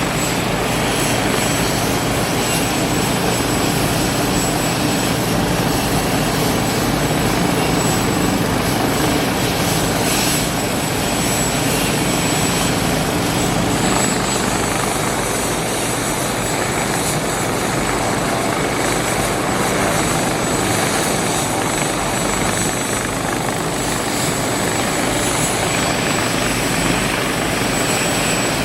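Helicopter running steadily close by, an even loud rotor and engine noise with a thin, steady high whine over it.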